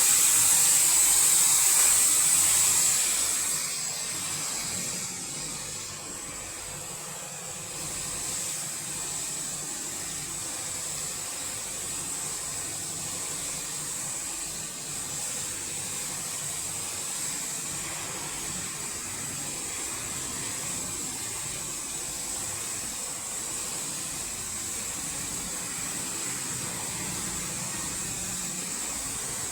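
Robotic car wash machine spraying water at a car: a loud hiss of spray for the first few seconds, dropping to a steady, quieter hiss with a thin high whine.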